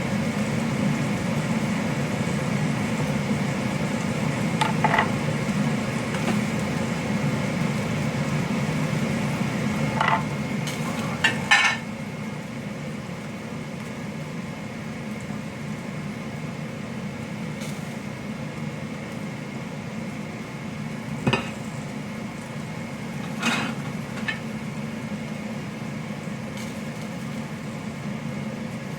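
Steady hum of a running kitchen appliance, dropping a little about twelve seconds in, with a handful of sharp clicks and knocks of a knife and dishes as a tomato is sliced and plated.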